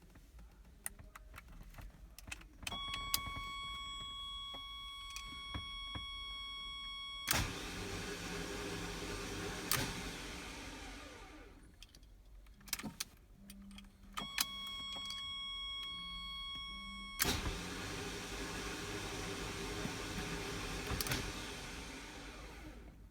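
Two attempts to start a 1985 Ferrari Testarossa that won't fire. Each time a steady high electrical tone sounds for a few seconds, then a steady electric whirring starts suddenly and runs for about four seconds, with no sign of the engine catching. The owner suspects a bad starter.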